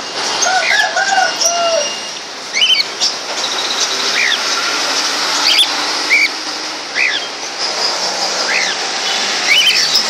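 Cage birds in an aviary calling: short, sharply rising chirps repeating every second or so, with a few lower, curving calls in the first second and a half, over a steady high hiss.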